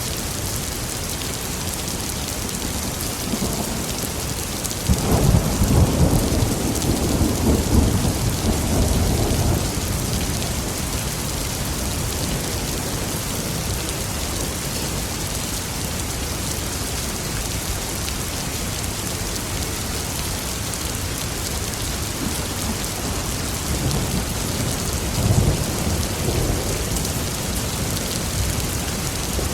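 Thunderstorm: steady heavy rain, with a long roll of thunder breaking in suddenly about five seconds in and rumbling for about five seconds, and a second, fainter rumble of thunder near the end.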